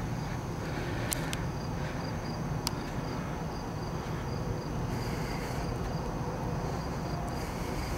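Insects chirping in a steady, evenly repeating high-pitched pulse over a low, steady rumble, with two faint clicks in the first few seconds.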